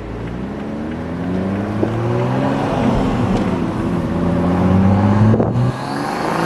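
Turbocharged 3.0-litre inline-six of a manual Toyota GR Supra, with an aftermarket intake and catless downpipe, accelerating hard in gear, its pitch rising steadily. About five seconds in the sound cuts off sharply as the throttle is lifted, then the engine picks up again at a lower note.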